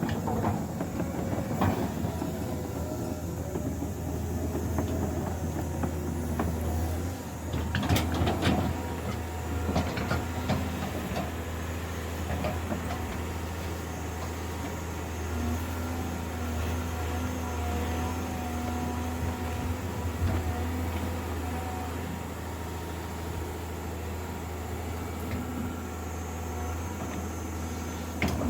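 A heavy machine's engine running steadily with a low drone, with knocks and clatters of timber being set in place, the loudest cluster about eight seconds in.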